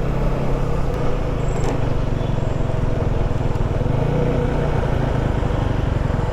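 Motorcycle engine running steadily on the move, mixed with road and wind noise; the engine note shifts slightly about four seconds in.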